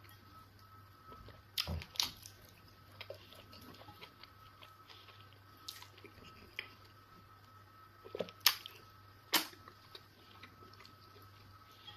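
Close mouth sounds of someone eating fufu and egusi soup: soft chewing and wet squishing, with a few louder smacks about two seconds in and again near the end.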